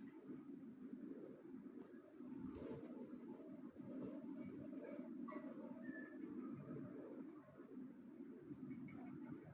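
A cricket trilling steadily in a fast, even pulse, over a faint low background rumble.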